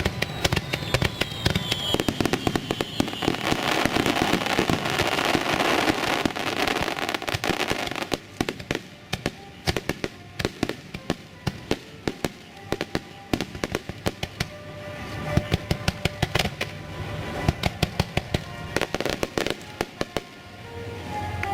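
Aerial fireworks bursting and crackling, with a falling whistle in the first few seconds. From about eight seconds in comes a dense run of sharp crackling pops.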